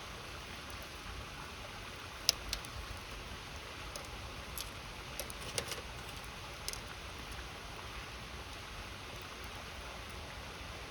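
Wood fire crackling, with a handful of sharp pops (the loudest about two seconds in, a cluster around the middle), over the steady rushing of a river.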